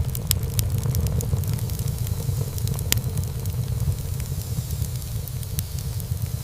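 Wood fire burning in a fireplace, with frequent sharp crackles and pops over a steady low rumble of the flames. One pop about three seconds in is louder than the rest.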